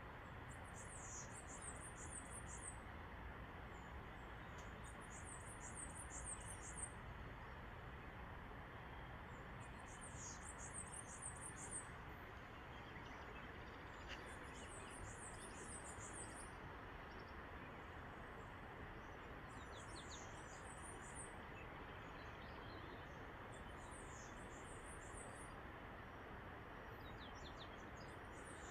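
High-pitched chirping bird calls, each a quick run of notes lasting about a second and a half, repeated roughly every four to five seconds over a steady background hiss.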